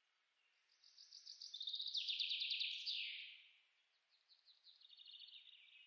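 A songbird singing: a fast trill of repeated notes that steps down in pitch, followed by a second, softer trill.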